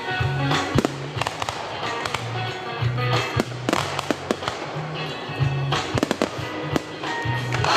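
Fireworks going off in a rapid string of sharp bangs and cracks, over loud music with a steady bass line.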